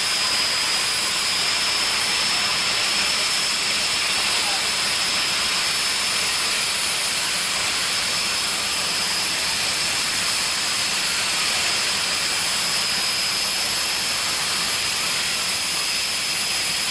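Jet engine of a jet drag racing car running steadily: a loud, even rushing hiss with a thin, high-pitched whine held over it.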